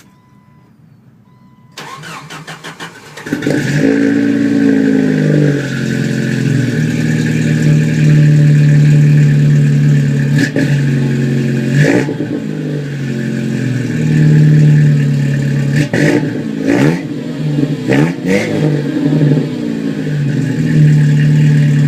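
Jeep 2.5-litre four-cylinder engine cranked by the starter for about a second and a half, catching and running loudly through Flowmaster mufflers with no catalytic converters. It idles with a deep exhaust note and is revved several times, the pitch rising and falling with each blip of the throttle.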